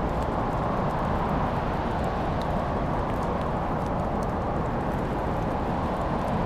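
Fireplace fire burning with a steady low rush and a few scattered faint crackles.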